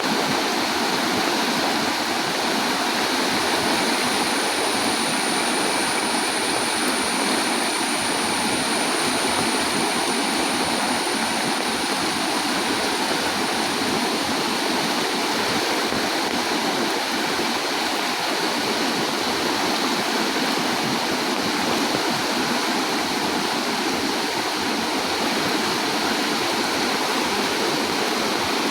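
Rain-swollen floodwater rushing steadily. A faint thin high tone runs above it from a few seconds in to about halfway.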